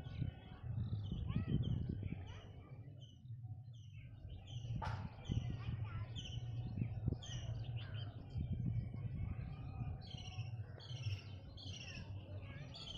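Several small birds chirping busily, with many short, repeated downward-sliding notes, over a steady low rumble. A single sharp click comes about five seconds in.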